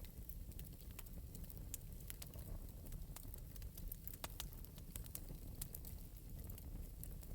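Wood fire burning in an open metal fireplace, crackling with irregular sharp pops and snaps over a low steady rumble.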